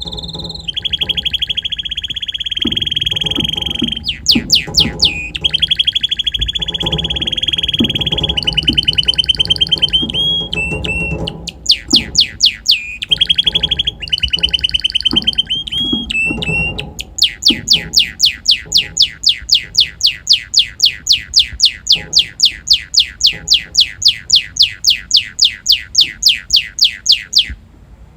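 Red canary singing a long song: rolling trills and quick sweeping notes, then a long run of the same rapid note repeated about four times a second, stopping abruptly shortly before the end.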